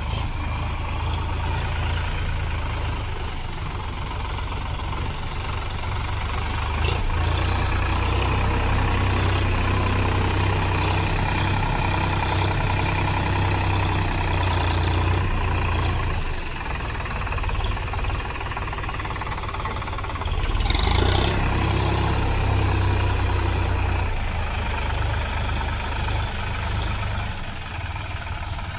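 Solis tractor's diesel engine running, its level rising and falling: louder from about seven seconds in, dipping briefly in the middle, and louder again later. A short hiss comes through about two-thirds of the way in.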